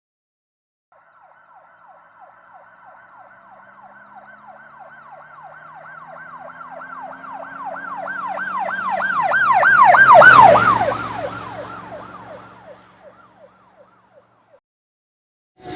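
Emergency vehicle siren in a fast yelp, about three sweeps a second, growing louder as it approaches, peaking about ten seconds in, then dropping in pitch as it passes and fading away. A low vehicle engine hum runs underneath.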